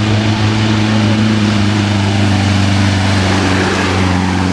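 Off-road rally 4x4's engine running at steady revs, holding one unchanging pitch throughout.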